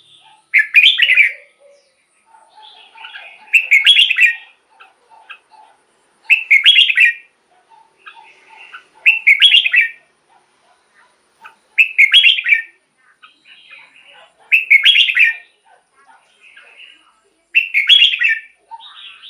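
Red-whiskered bulbul singing: a loud, short whistled phrase repeated about every three seconds, with softer chirps in between.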